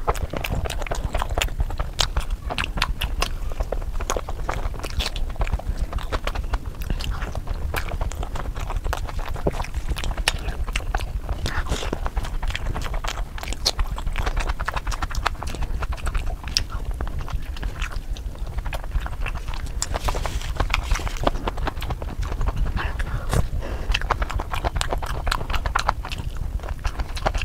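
Close-miked chewing and lip-smacking on chicken biryani, with a dense, irregular stream of wet mouth clicks over a low steady hum.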